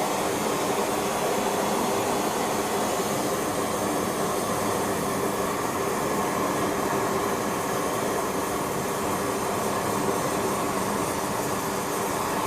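Steady blowing roar with a faint hum from the equipment heating silver up to pouring temperature for casting.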